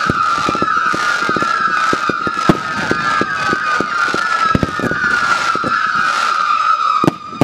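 A barrage of whistling fireworks: many shrill whistles sound together in a dense chorus that drifts slightly lower in pitch, over a rapid run of firing thumps and small bangs. There is one sharper bang about two and a half seconds in. The whistling cuts off just before the end.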